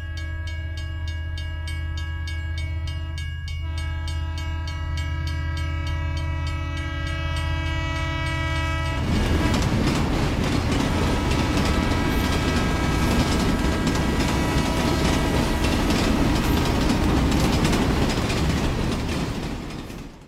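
Train horn sounding in long steady blasts over a low rumble, with a short break about three and a half seconds in. About nine seconds in the train passes close, louder, with rumbling and rapid wheel clatter on the rails, then fades out just before the end.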